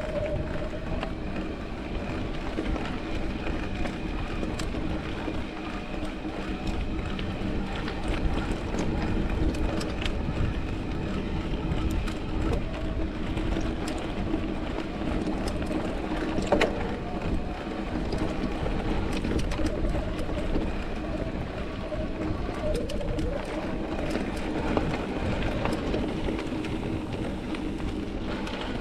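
Mountain bike rolling along a rocky dirt trail: a steady rumble with frequent small rattles and knocks from the bike.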